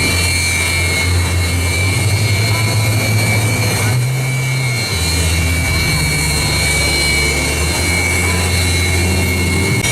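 Su-30MKM's twin AL-31FP turbofan engines running steadily on the ground: a constant high whine over a deep rumble.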